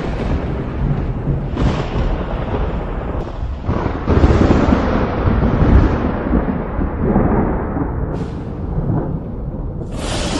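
Thunder during a thunderstorm. Several sudden sharp cracks break into a continuous low rolling rumble, which is loudest about four to six seconds in. Steady rain hisses underneath.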